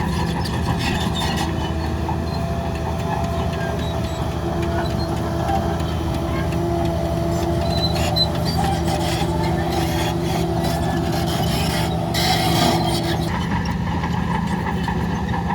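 Heavy diesel earthmoving machinery running steadily, the bulldozer or the dump trucks, with a thin whine over the engine until about thirteen seconds in and some clatter.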